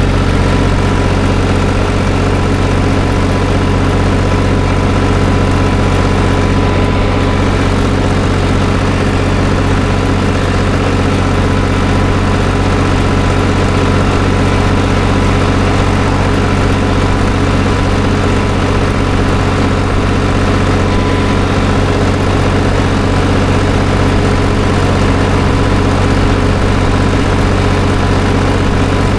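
Farm tractor engine running steadily and loud, heard close from the driver's seat as the tractor drives along.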